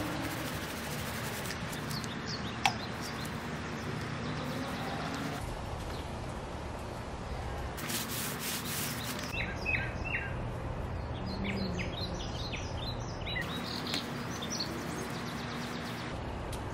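Outdoor backyard ambience: a steady low hum with a series of short bird chirps, most of them in the second half.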